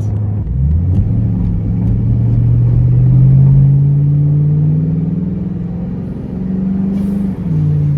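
Ford Mustang with a Roush Extreme axle-back exhaust pulling through the gears. The exhaust note drops in pitch at a shift about half a second in, then rises steadily as the engine revs climb, peaking in loudness a few seconds in. It eases off, climbs again and drops at another shift near the end.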